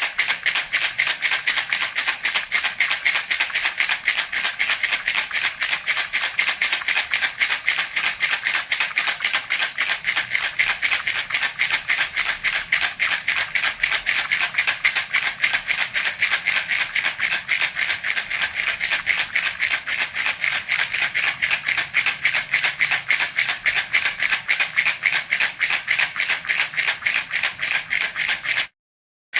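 Baby rattle (jhunjhuna) shaken steadily in a fast, even rhythm, its beads rattling crisply. It cuts out briefly near the end, then resumes.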